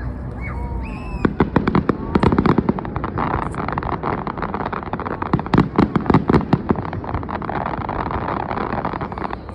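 Aerial fireworks crackling: a dense run of rapid sharp pops, starting about a second in and thinning out about seven seconds in.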